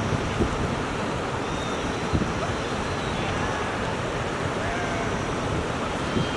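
Steady outdoor rushing noise with a few faint, short, high chirps.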